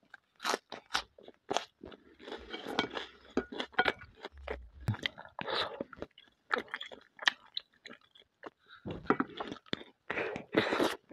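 Close-miked chewing of boiled pelmeni dumplings with sour-cream sauce: a run of short, irregular mouth clicks and chewing sounds.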